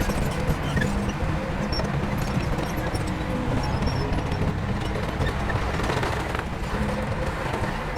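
Heavy diesel earthmoving machinery running steadily, a dense low engine rumble with a few faint high squeaks over it.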